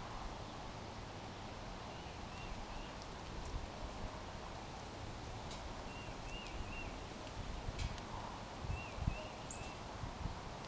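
Small birds chirping: short, arched notes repeated in little runs of three or four, several times over, against steady outdoor background noise, with a few low thumps.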